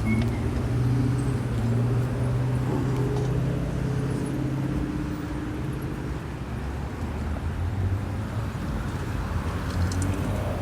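A motor vehicle engine running close by, a steady low hum that fades about six seconds in, over street traffic noise.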